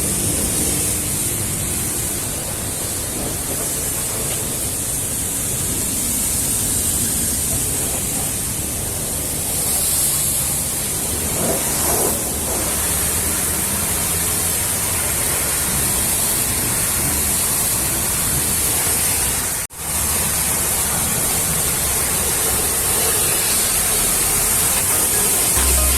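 High-pressure washer spraying water, a steady hiss that drops out for an instant about two-thirds of the way through.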